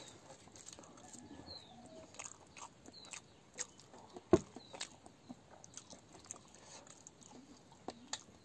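Close-up mukbang eating sounds: a man chewing a mouthful of rice and greens with wet smacks and clicks, one sharp click a little past the middle much louder than the rest. A bird chirps faintly in the background about every second and a half.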